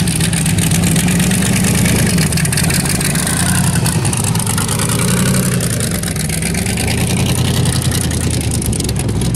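Supercharged V8 of a rat rod pickup running loud and steady at low speed as the truck rolls past, with slight changes in engine pitch midway.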